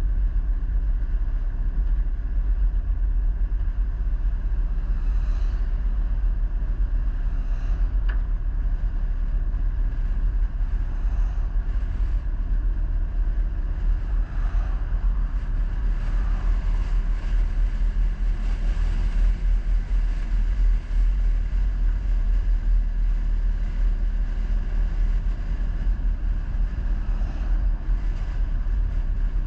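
Vehicle on the move: a steady low engine and road rumble, unbroken throughout.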